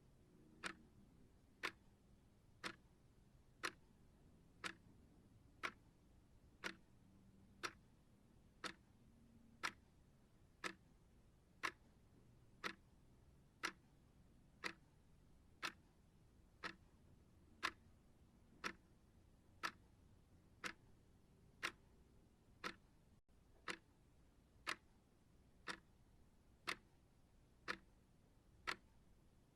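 Clock ticking at one sharp, single tick per second, evenly spaced.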